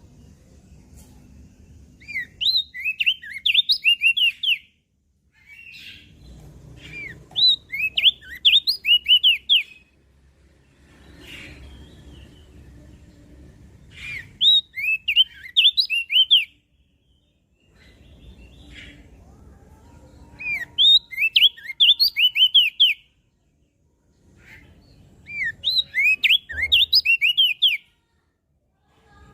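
Opior jambul (crested white-eye) singing: five short, rapid phrases of high, quick, sweeping chirps, each about two to three seconds long, with pauses of a few seconds between them. A faint low background rumble lies under the song phrases.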